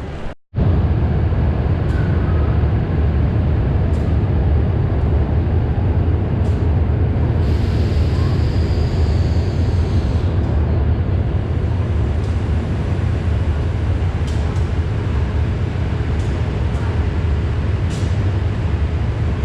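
Steam-hauled train running with a steady low rumble, and a hiss for about three seconds near the middle.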